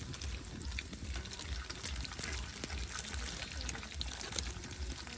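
Steady watery noise from a pot cooking over an open fire, with scattered small clicks and a low rumble pulsing underneath.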